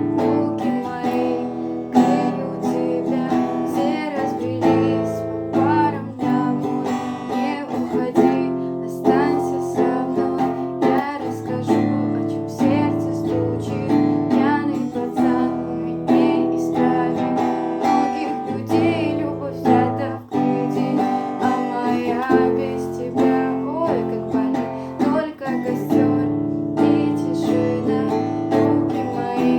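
Acoustic guitar strumming chords steadily in a song accompaniment, one strum after another at an even pace.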